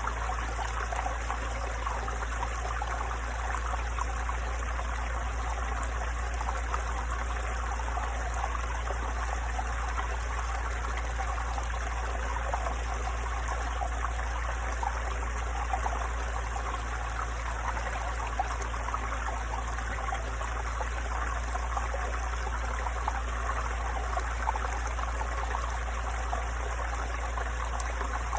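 Small mountain stream babbling over stones, a steady gentle burble of running water with no pauses.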